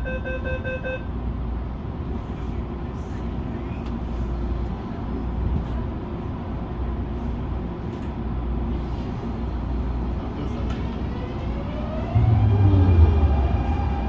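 Cabin sound of an MTR Tung Chung line CAF train: a steady low rumble, with a beeping tone that stops about a second in. About ten seconds in, the traction motors' whine rises in pitch as the train picks up speed, and the rumble grows louder near the end.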